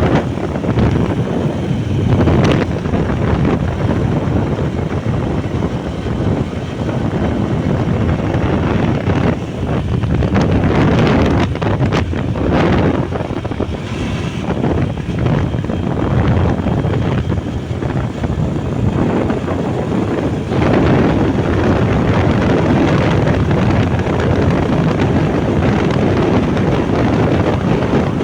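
Wind rushing over the microphone of a moving motorbike, with the bike's engine and road noise underneath.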